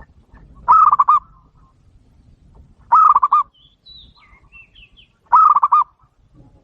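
Zebra dove (perkutut) calling three times, about two seconds apart, each call a quick run of rapid cooing notes. Faint high chirps come between the calls.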